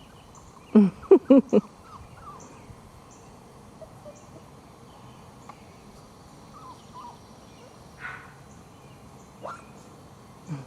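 Labrador puppies yipping: a quick run of about five short, pitched yips about a second in. After that only a low outdoor background with a few faint bird chirps.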